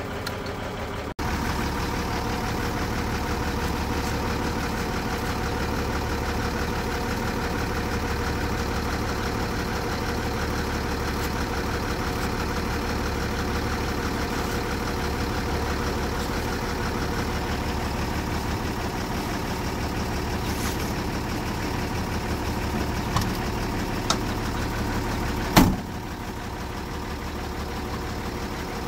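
Vehicle engine running steadily, with a few sharp knocks near the end, the last the loudest.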